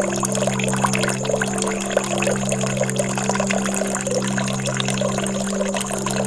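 Flowing, trickling water over calm relaxation music that holds a steady low drone.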